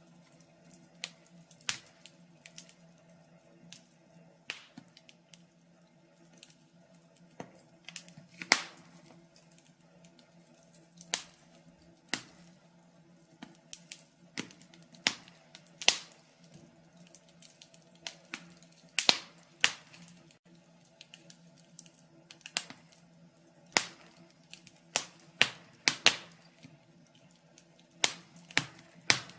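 Wood fire crackling: irregular sharp pops and snaps, from one to several a second, over a faint steady hum.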